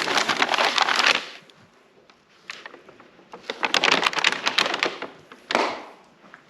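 Bursts of rapid crackling and scraping, three in all with short lulls between, the first the loudest: hard debris or objects being handled or shifted.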